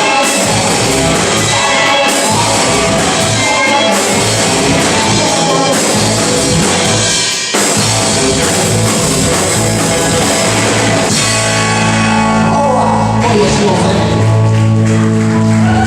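Live rock band playing electric guitar, bass and drum kit with singing, loud and driving; about two-thirds of the way through it moves into long held chords over a steady bass.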